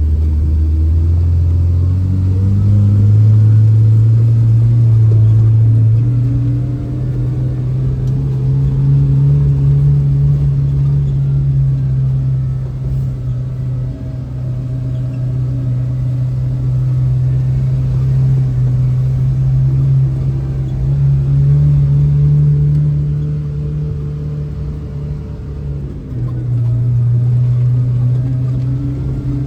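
Kawasaki Ridge side-by-side engine running under way, heard from inside its enclosed cab: a low drone that rises in pitch over the first few seconds, then holds fairly steady with a couple of small shifts in speed.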